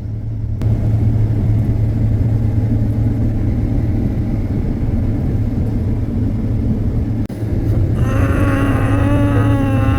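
Combine harvester running steadily with a deep, even hum while harvesting corn. About eight seconds in, a pitched whine comes in over the hum and wavers in pitch.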